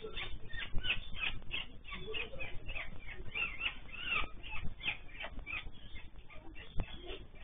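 African grey parrots giving a steady run of short, rapid chirps and clicks.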